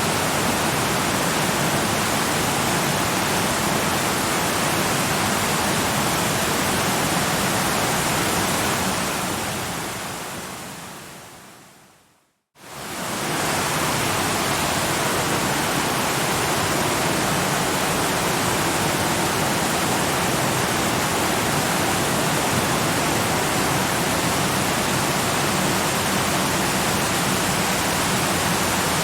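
Steady, even rush of falling water from a waterfall. About nine seconds in it fades away to a moment of silence a little after twelve seconds, then quickly fades back in and carries on unchanged.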